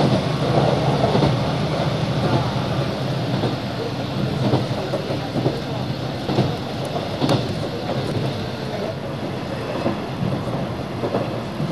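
Train running noise heard from inside a passenger car: a steady low drone, with wheels clicking over rail joints at irregular intervals.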